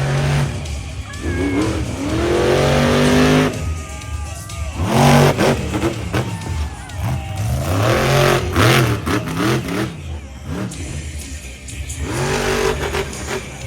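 Monster truck engine revving hard again and again, its pitch climbing with each burst of throttle, over background music.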